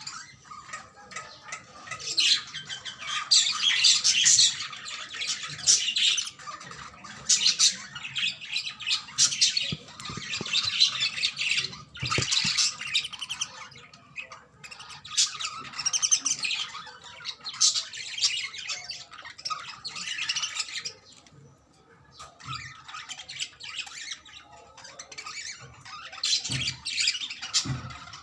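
Budgerigars chattering and squawking, a busy run of rapid warbles, chirps and harsh squawks with brief pauses, one longer pause near the end.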